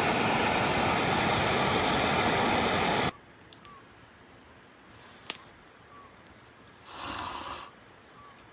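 A loud, steady rushing noise that cuts off abruptly about three seconds in. A quieter background follows, with one sharp click and a brief soft hiss near the end.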